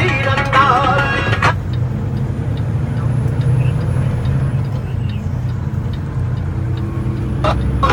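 Steady low drone of a Kenworth T680 semi-truck's engine and road noise heard inside the cab, with a faint regular ticking. A song playing in the cab cuts off about a second and a half in and comes back near the end.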